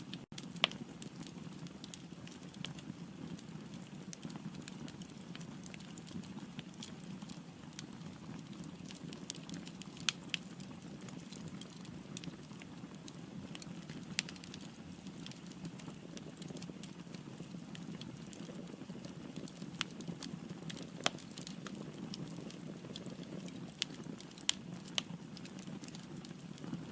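Wood fire burning in a fireplace: a steady low rush of flame with frequent irregular crackles and sharp pops from the burning firewood.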